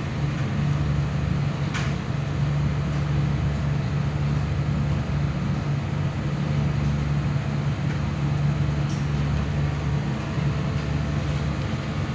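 Steady low mechanical hum under an even hiss, with two brief clicks, about two and nine seconds in.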